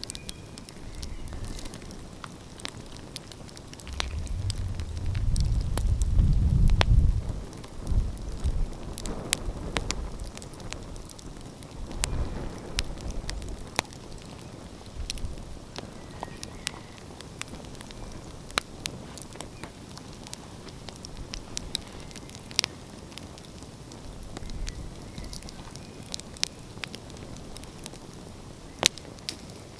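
Wood fire crackling, with irregular sharp pops and snaps throughout. A low rumble swells and fades between about four and eight seconds in, and again briefly later.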